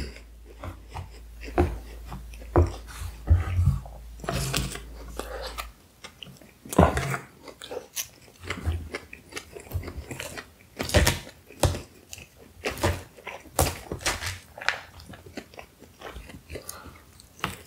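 Close-miked chewing of a mouthful of shawarma meat and salad, with irregular wet smacks and sharp clicks.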